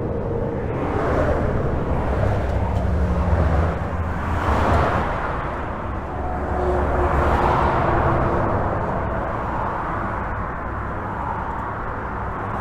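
Highway traffic heard from under a bridge: a continuous rush of tyres and engines that swells and fades as individual vehicles pass, several times, over a low engine drone.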